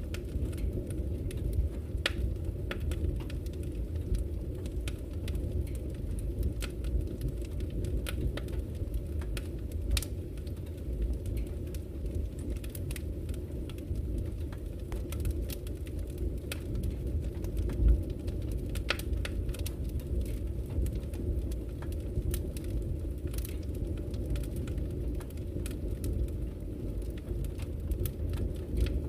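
Wood fire burning in a fireplace: a steady low rumble with scattered sharp crackles and pops, one louder pop about two-thirds of the way through.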